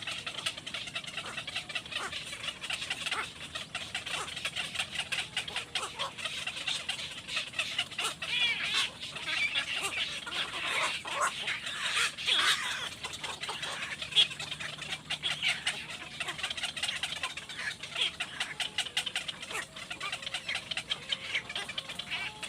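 Birds chirping steadily, many short high-pitched calls overlapping one another.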